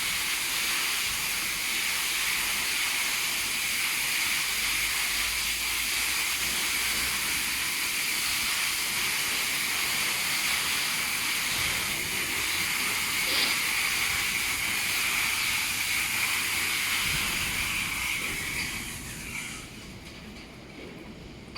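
High-pressure water jets of a double-arm touchless car wash machine spraying with a steady hiss, which dies away about nineteen seconds in.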